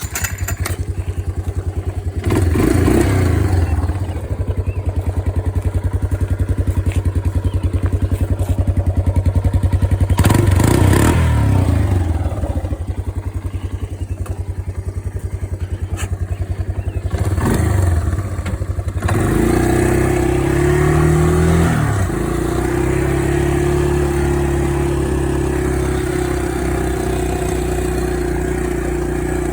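1985 Yamaha Tri-Moto 200 three-wheeler's single-cylinder four-stroke engine running through a newly fitted muffler: it starts up, is revved three times, then settles to a steady idle for the last third, running good.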